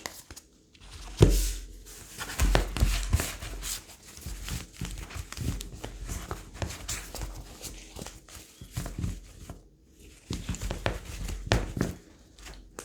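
A tarot deck being shuffled and handled by hand: a long, irregular run of quick card flicks and rustles, with a few low thumps.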